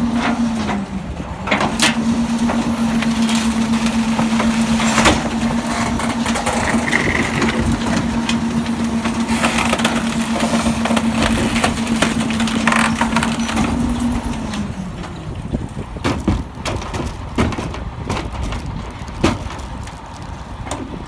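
Garbage truck engine held at a steady raised speed with a steady whine, dipping briefly about a second in and falling away about fourteen seconds in, with sharp knocks and cracks of trash being crushed over it.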